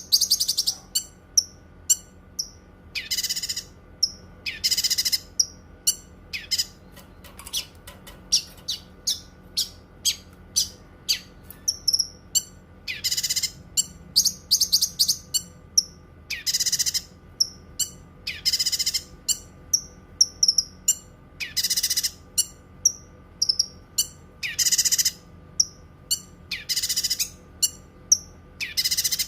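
Cucak kinoi singing: a run of quick, sharp high chirps broken every two to three seconds by a longer, harsh trilled phrase of about half a second. A faint steady hum lies under the song.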